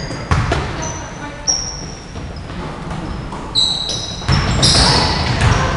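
Basketball game sounds: short high squeaks of sneakers on the court and a ball bouncing. A general crowd noise gets louder about four seconds in.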